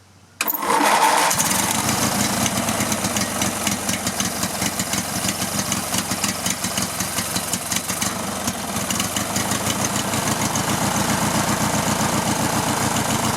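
Riding lawn mower engine started on the starter, catching about half a second in and running steadily with the choke closed. It runs only on the choke, with suction at the carburetor's fuel inlet line.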